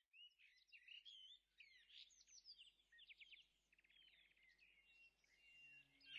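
Faint birdsong from several songbirds: chirps, whistles and a quick trill. A low, steady musical tone fades in near the end.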